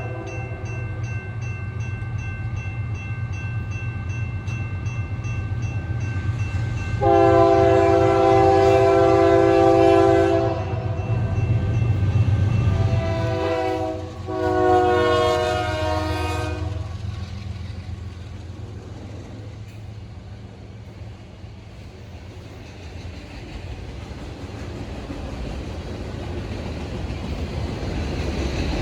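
A diesel freight locomotive's multi-note air horn sounds the grade-crossing pattern: a blast ending at the start, a long blast, a short one, then a final long one. Underneath, the locomotive's low engine drone runs on and the train noise builds near the end as the train comes closer.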